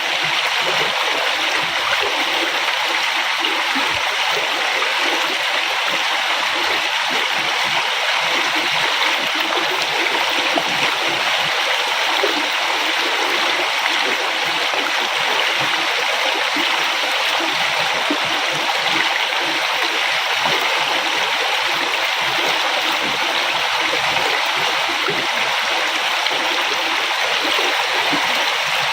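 A river flowing: a steady, continuous rush of water that holds the same level throughout.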